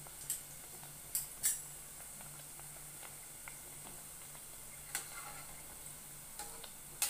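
Mandazi dough pieces deep-frying in hot oil: a steady sizzle, broken by a few sharp clicks, the loudest about a second and a half in and near the end.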